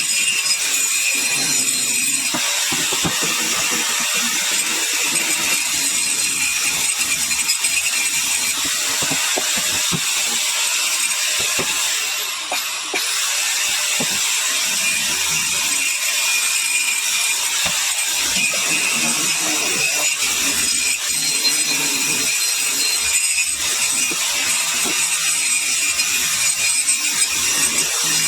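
Angle grinder grinding into a stone concretion: a steady high motor whine under the rasp of the disc on rock, with a brief dip near the middle.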